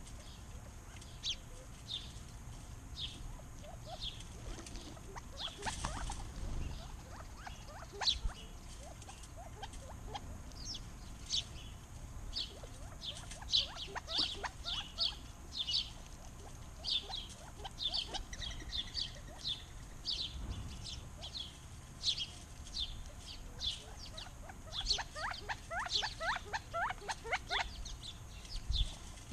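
Backyard songbirds chirping, with many short high chirps following one another, and a quick run of lower, rapid notes about 25 seconds in.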